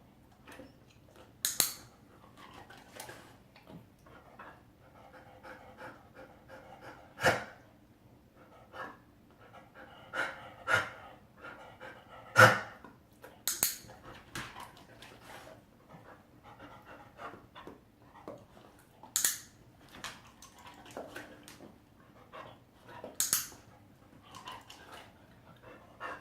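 A dog panting and giving several short coughs, the behaviour being rewarded. Sharp clicks of a training clicker mark them.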